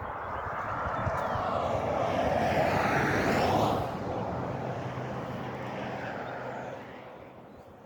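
A vehicle passing by: its noise swells to a peak about three and a half seconds in, then drops and fades away.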